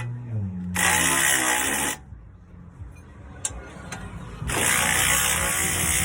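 Electric impact wrench running in two bursts, spinning out an already-loosened bolt on the shock absorber mount. The first burst lasts about a second; a second, longer one starts past the middle.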